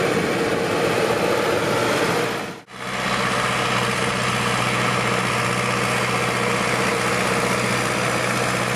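Ursus C-385 tractor's diesel engine running steadily, cutting out for an instant about two and a half seconds in and then going on with a deeper, even tone.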